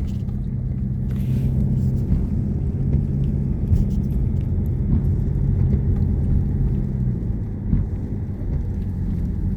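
Car engine and road noise heard from inside the cabin while climbing a hill: a steady low rumble with an engine hum that fades about seven seconds in.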